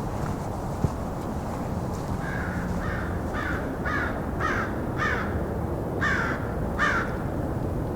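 American crows cawing: a series of about eight harsh caws, roughly two a second, beginning about two seconds in.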